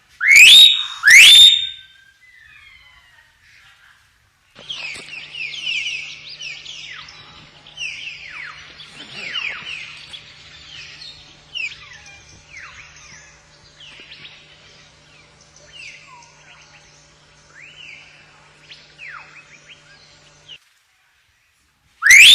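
Hill myna calling: two loud rising whistles right at the start, then a long run of quieter, quick chirps and short whistled glides over a faint steady hum. The calls stop about two seconds before the end.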